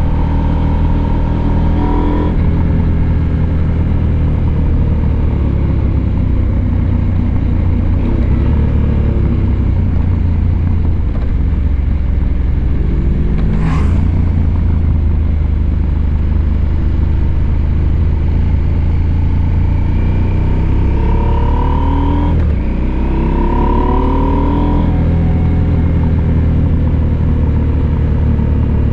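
Husqvarna Norden 901's parallel-twin engine under way, its note repeatedly climbing as the throttle opens and falling away as it closes, breaking off sharply near the start and again about two-thirds of the way through. A single sharp click about halfway through.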